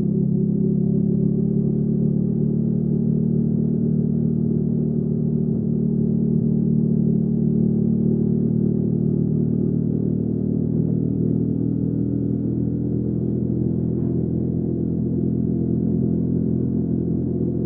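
Hyosung GV300S Aquila 300's V-twin engine running at a steady pitch with no big revs, its pitch shifting only slightly about two-thirds of the way through.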